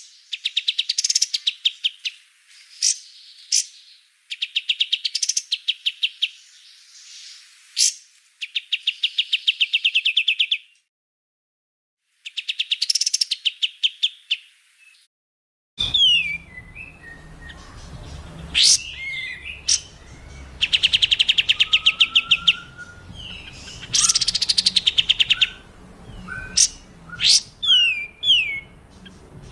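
Songbirds singing: bursts of fast, harsh rattling trills alternate with sharp, high down-slurred whistles, with short silent gaps. About 16 seconds in, the recording cuts to another bird recording with a faint background hiss, and the trills and whistles go on.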